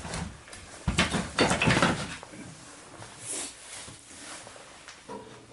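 A quick run of knocks and clatter lasting about a second, starting about a second in, followed by a brief soft hiss.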